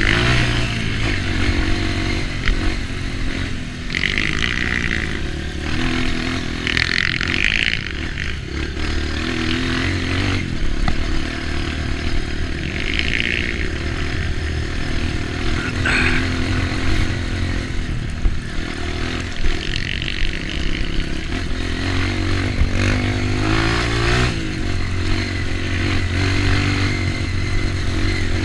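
Off-road trail motorcycle engine running under changing throttle, with a rise in revs late on.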